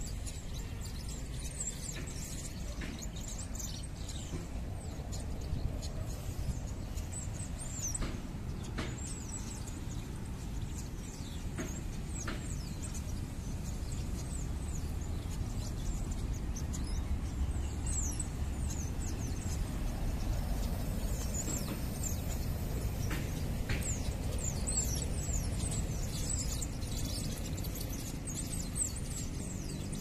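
Small birds chirping with short, high, downward-sweeping calls, more often in the second half, over a steady low background rumble.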